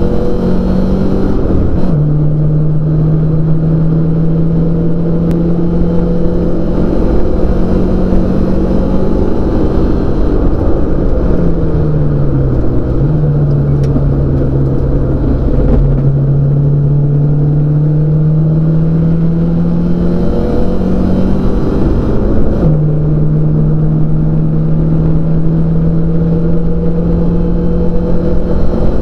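Race car engine heard from inside the cockpit, loud and steady under load. Its pitch climbs slowly and steps down about two seconds in and again near the end, which are gear changes. Midway it falls away and then steps back up, a lift and downshift for a corner, all over a steady road and tyre rumble.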